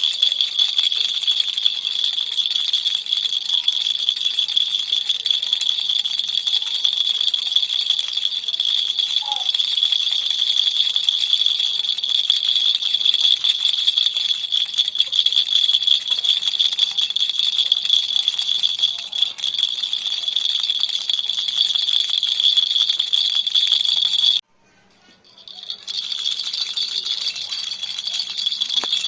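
Baby's toy rattle shaken without a break in a fast, even, bright rattle. About three-quarters of the way through it stops suddenly for a second or so, then starts again and builds back up.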